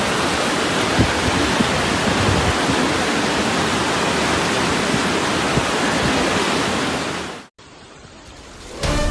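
Steady loud rush of fast-flowing floodwater. It cuts off abruptly about seven and a half seconds in, and music starts just before the end.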